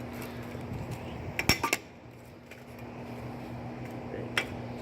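A few sharp metallic clinks and knocks from the sheet-metal and parts of a scrapped window air conditioner being handled: a quick cluster about a second and a half in, and a single one near the end. A steady low hum runs underneath.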